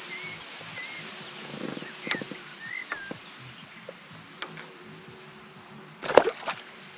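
Small birds giving short, wavering chirps every second or so over a steady faint outdoor hiss, with a few light clicks. About six seconds in comes a louder, brief clatter of handling noise.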